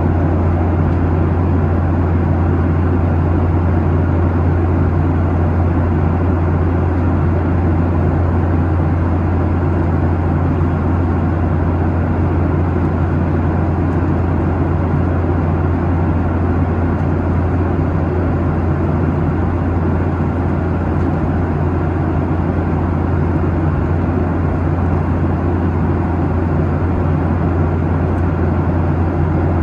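Steady cabin noise inside a Boeing 737-800 airliner at cruise: engine and airflow noise with a strong, unchanging low hum.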